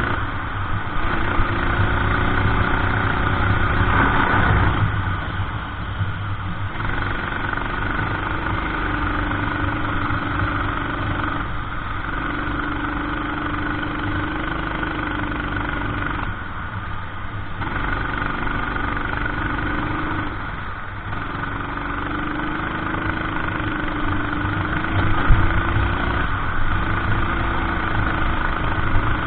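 Racing kart engine heard onboard at speed. Its note holds and climbs along each straight and drops away each time the throttle is lifted for a corner, several times over.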